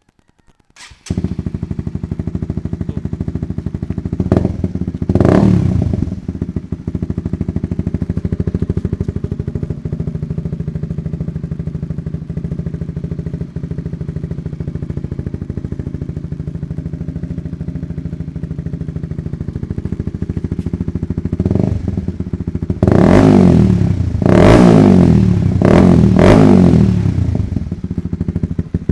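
Honda CBR150R single-cylinder engine through an aftermarket replica Pro Liner long slip-on silencer, starting about a second in and idling, blipped twice soon after, then revved repeatedly near the end. The exhaust note is full and dense.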